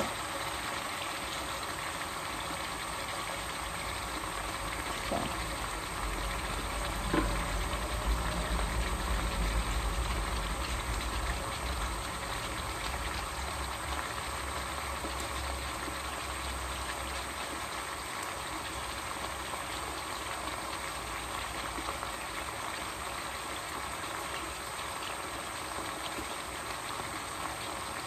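Chicken frying in a pan with a steady sizzle, with a few light knocks and a low rumble for several seconds near the middle.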